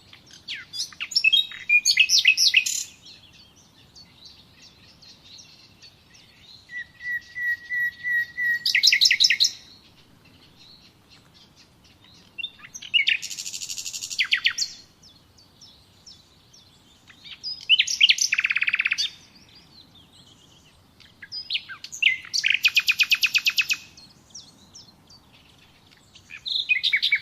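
A songbird singing short, fast trilled phrases, each one to three seconds long, repeated about every four to five seconds, six times in all.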